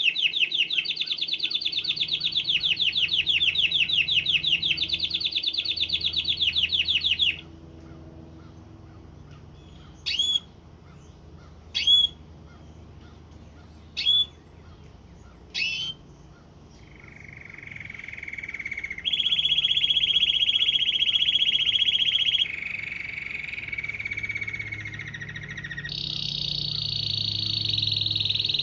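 Canary singing: a long run of fast, rapidly repeated trill phrases, then a pause broken by four short sharp single notes about two seconds apart, then more trills, each held at a different pitch.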